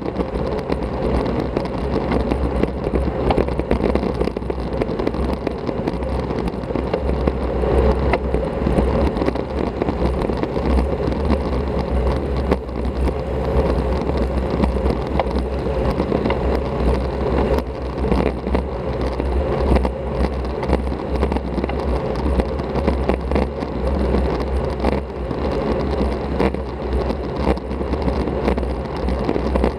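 Steady rush of wind buffeting an action camera's microphone as a road bike rides along at speed, with tyre and road noise underneath.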